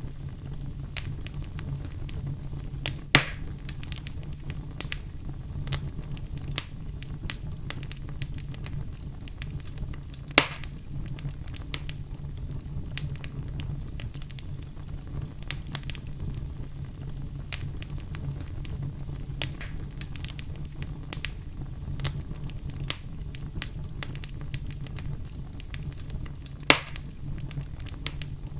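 Wood fire crackling in a fireplace: a steady low rumble of the flames under scattered small crackles, with three louder, sharp pops spread through it.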